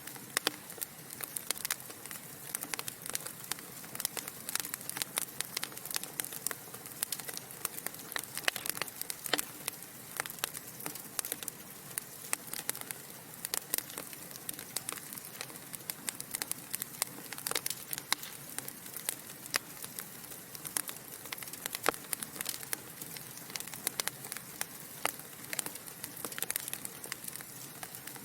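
Wood fire burning in a fireplace: logs crackling and popping in many sharp, irregular snaps over a soft steady hiss.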